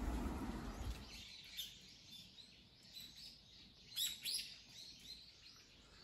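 Small birds chirping in short, scattered calls, faint, the loudest about four seconds in. A low rumble fades out in the first second.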